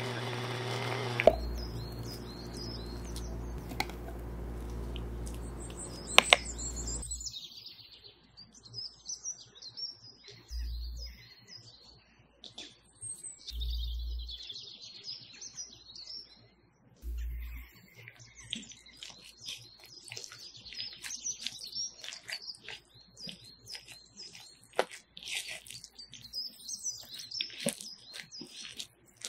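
Small birds chirping and tweeting in quick, repeated high notes through most of the stretch, with scattered soft taps. Right at the start an electric food chopper's motor is running, and it stops about a second in.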